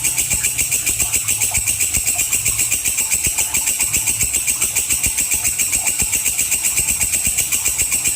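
Walang kecek katydid stridulating: a continuous, high, sharp buzzing chirr pulsed at about eight beats a second.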